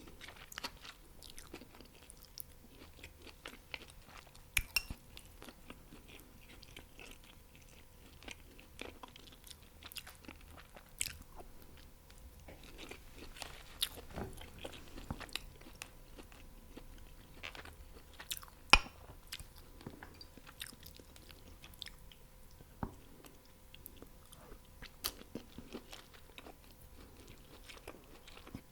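Close-miked mouth chewing and crunching fried chicken wings and chaufa fried rice: irregular wet smacks and sharp crunchy cracks, the loudest crack about 19 seconds in.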